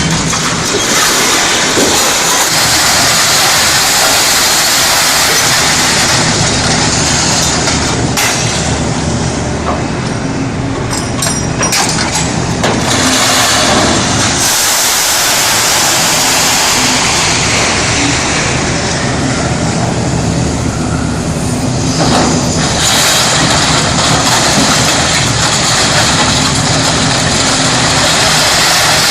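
Liebherr R974C material handler's 8-cylinder diesel engine working, its pitch rising and falling as the machine moves, with a few knocks.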